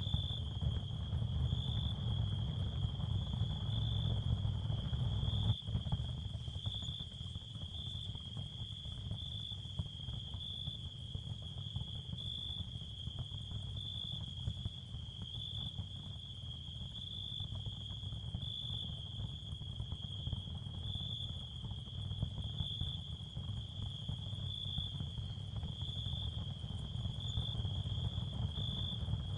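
Ambient tinnitus-therapy sound field: a steady high-pitched tone that swells faintly about once a second, over a low, even rumble.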